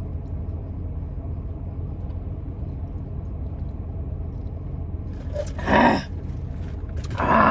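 Steady low rumble of a car's running engine heard inside the cabin. Two short, loud noisy bursts come near the end.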